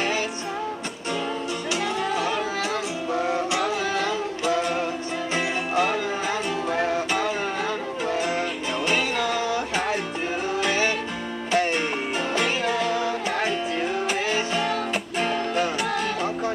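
Strummed acoustic guitar playing steady chords under a singing voice, an acoustic pop song performance.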